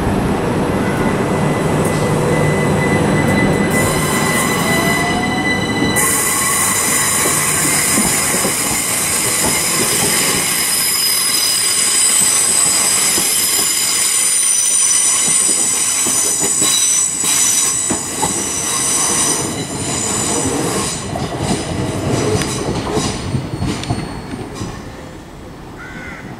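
Train wheels squealing in several high, steady tones as an electric passenger train runs through the station, then a run of clicks over the rail joints as it fades away near the end.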